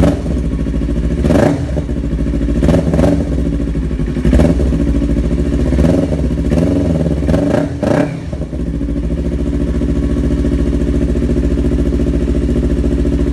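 Yamaha R25's parallel-twin engine through a TRI-780 Tiger full-system aftermarket exhaust, idling with a string of short throttle blips over the first eight seconds, then settling back to a steady idle.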